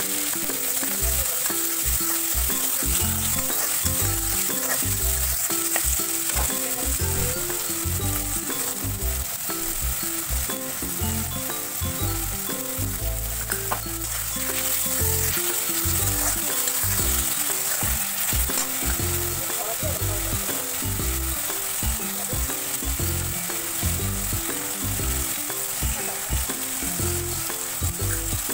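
Chopped tomatoes and onion sizzling steadily in hot oil in an iron kadai, with a steel spatula stirring them against the pan.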